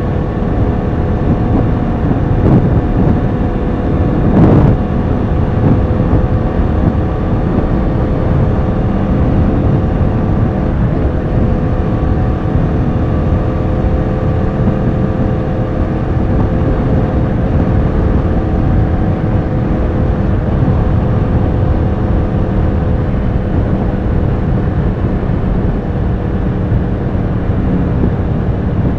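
Yamaha R1 sport bike's inline-four engine running at a steady cruising pitch, with two brief louder surges a few seconds in.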